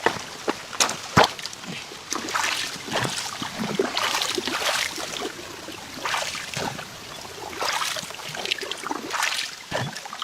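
Water sloshing and splashing in irregular bursts, with scattered sharp clicks and knocks.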